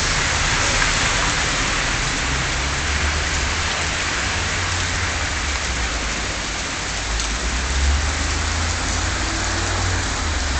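Heavy rain pouring down steadily, a dense even hiss of drops hitting the ground, with a low rumble underneath that swells briefly near the end.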